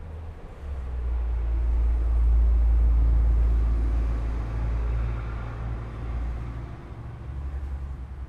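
A vehicle passing by: a low rumble that builds over about two seconds and then slowly fades.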